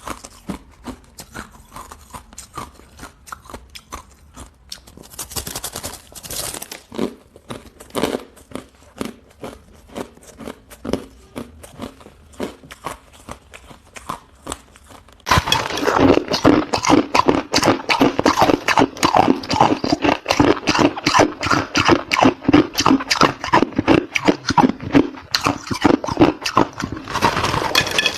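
Hard ice being chewed close to the microphone: a rapid run of crunches. A little past halfway the crunching turns abruptly much louder and denser.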